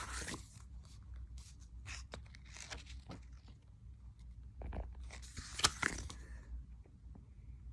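Paper rustling and pages of a book being handled and turned, with scattered small clicks and a couple of longer rustles, over a low steady hum.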